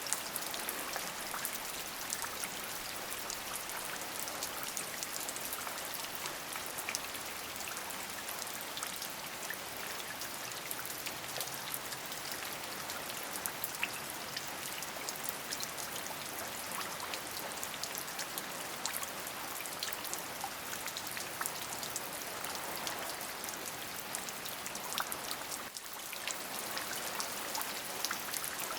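Steady rain: an even hiss of falling rain dotted with many small, separate drop ticks. It dips briefly about three seconds before the end.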